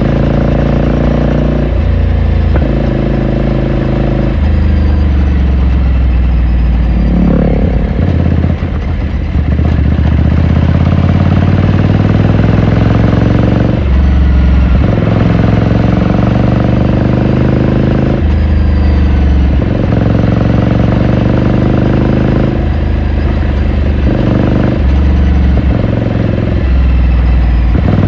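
2018 Ducati Scrambler Sixty2's air-cooled 399 cc L-twin engine and exhaust under way, the revs rising and falling through repeated gear changes. There is a long climb in revs from about nine seconds in, just after a brief drop near eight seconds.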